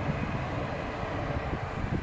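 Steady rumble of an ETR 610 electric tilting train rolling away out of the station, with wind noise on the microphone.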